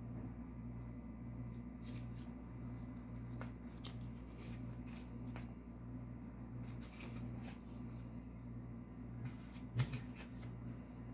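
Scattered light clicks and taps of small objects being handled, over a steady low hum; one sharper click about ten seconds in is the loudest.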